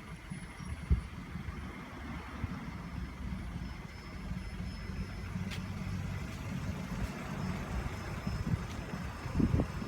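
A vehicle engine running, a steady low rumble with a few short thumps.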